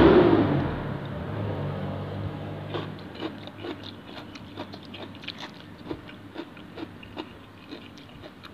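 Close-up chewing of crisp raw shrimp in fish sauce, with quick wet clicks and crunches about three times a second from about three seconds in. A loud rushing noise dies away over the first second.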